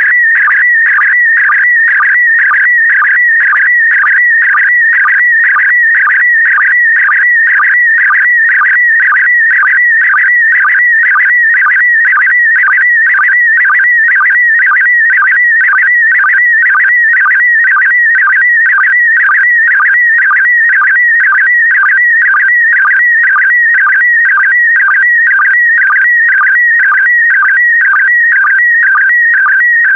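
Slow-scan television (SSTV) image transmission in PD120 mode: a loud, high warbling tone that shifts pitch as it carries the picture's scan lines, broken by a short lower sync blip about twice a second.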